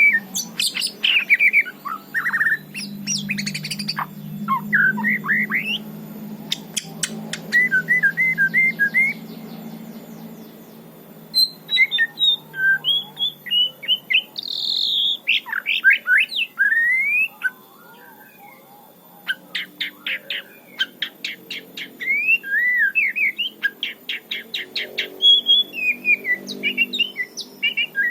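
White-rumped shama singing a long, varied song of clear whistled phrases with short pauses, with runs of rapid rattling notes in the second half. A faint low hum sits under the first half.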